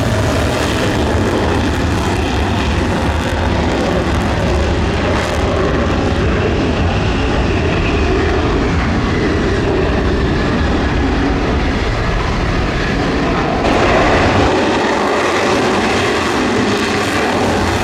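Jet aircraft engines running loud and steady. About fourteen seconds in, the deep rumble drops away and the higher hiss grows brighter.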